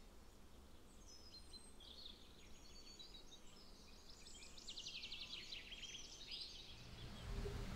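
Faint songbirds singing, with chirps and quick trills, over a quiet outdoor background; a low rumble comes in near the end.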